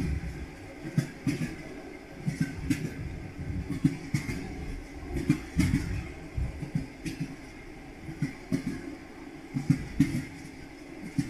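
Train wheels clattering over rail joints: irregular knocks and clacks over a steady rumble of a moving train.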